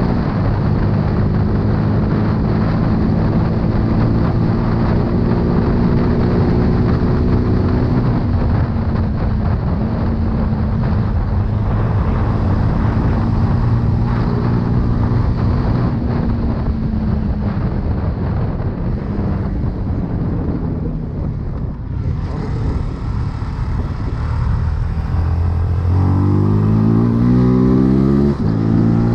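CFMoto 250CL-X single-cylinder engine running under way, with wind noise over the microphone. The engine pitch holds fairly steady for most of the stretch, then rises sharply under throttle near the end, drops suddenly and climbs again.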